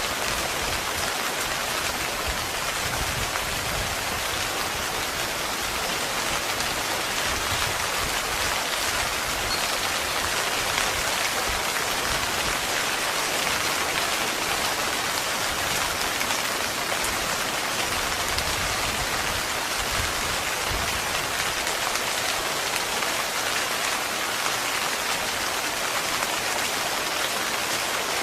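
Heavy rain falling steadily on a tent, a dense, even hiss of drops with no letup.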